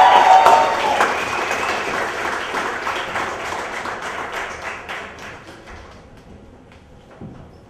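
Audience applauding and cheering, dying away over about six seconds.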